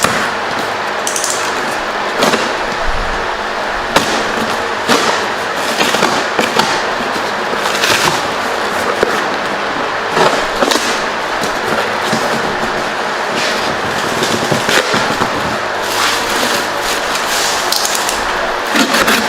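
Rigid expanding spray-foam packing being broken and pulled apart by hand inside a cardboard box: continuous crunching and rustling with many sharp snaps and cracks throughout.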